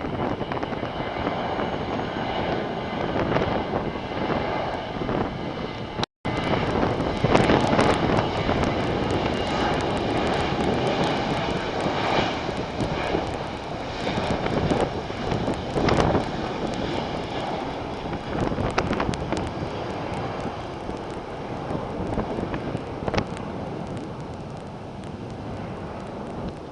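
Jet airliner engines running at takeoff power: a loud, steady rush with a faint high whine and an irregular crackle. The sound cuts out for a moment about six seconds in.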